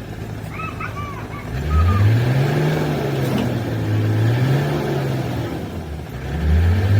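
An engine idling steadily, then revved up and down twice, its pitch rising and falling, and beginning to rise again near the end.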